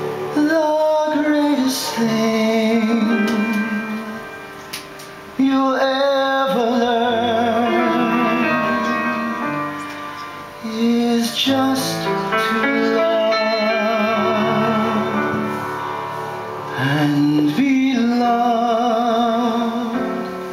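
Music: a singer in four phrases of long held notes with vibrato, each phrase starting loud and fading, over instrumental accompaniment.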